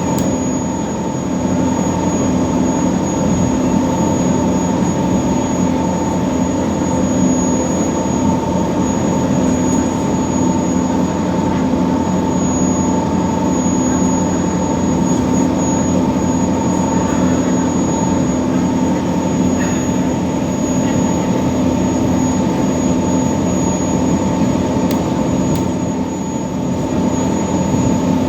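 Scania diesel engine of a passenger ferry running at a constant speed, a steady drone with a thin high whine above it.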